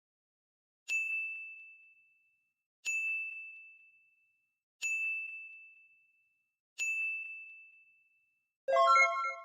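Four evenly spaced bell-like dings, about two seconds apart. Each is a single high tone that rings out and fades. Near the end a louder chime of several notes sounds together.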